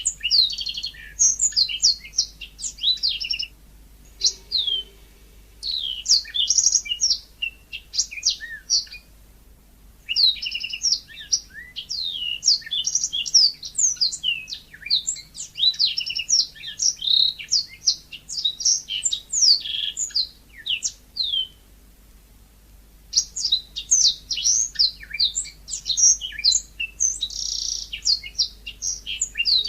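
Yellow-fronted canary (Mozambique singer) singing: phrases of rapid, varied high chirps and trills, broken by short pauses.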